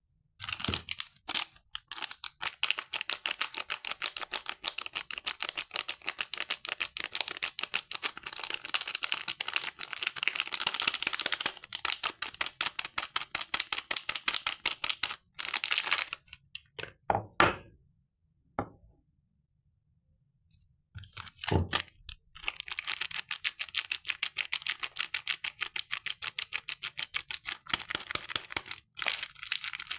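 Soap packaging being unwrapped close to the microphone: dense, rapid crinkling and crackling. It breaks off for a few seconds in the middle, with a few single knocks, then starts again.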